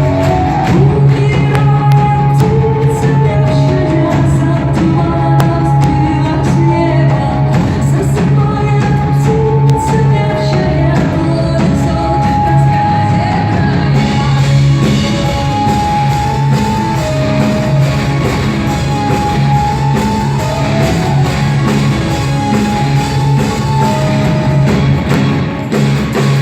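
Live rock band playing a song, with sung vocals over guitars and drums, loud and steady throughout.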